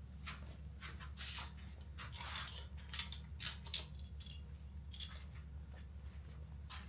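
Metal engine parts from a GM 8.1L V8 teardown being handled: a string of irregular light clinks and short scrapes over a steady low hum.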